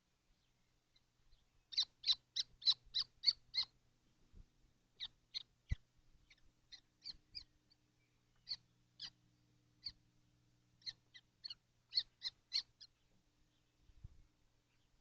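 Kestrels calling: a quick run of about seven short, high calls about two seconds in, then scattered single calls and another quick run of four near the end. A single sharp knock about six seconds in, over a faint steady hum.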